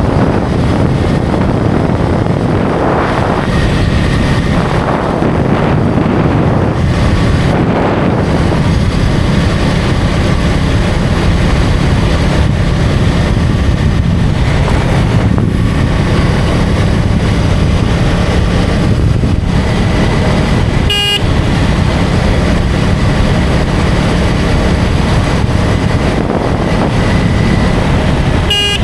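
KTM Duke 250's single-cylinder engine running at road speed under wind and road noise, with a couple of rises in engine pitch in the first few seconds. A vehicle horn gives a short beep about two-thirds of the way through and again near the end.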